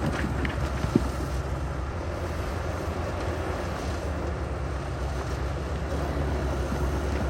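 Heavy diesel earthmoving machine running steadily with a low rumble, with one brief sharp knock about a second in.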